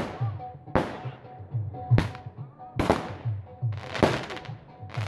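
Aerial fireworks going off: about five sharp bangs roughly a second apart, some followed by a short hiss, over background music with a steady beat.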